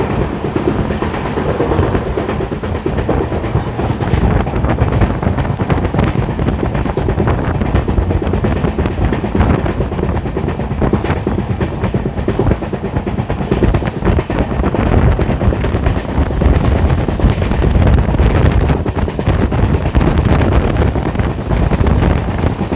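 Passenger train running at speed: a steady, loud rumble with dense rattling and clatter of the wheels on the rails.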